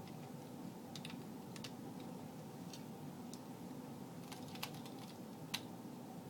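Small plastic clicks and taps of LEGO pieces being handled and fitted back onto a model, scattered and irregular, over a steady low background hum. The sharpest click comes about five and a half seconds in.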